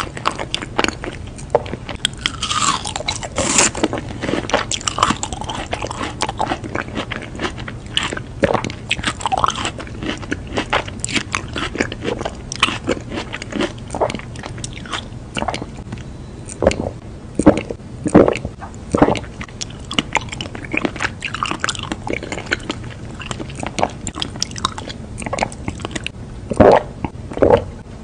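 Close-miked biting and chewing of a round lemon candy, a long run of irregular crunches with a few louder bites in the second half.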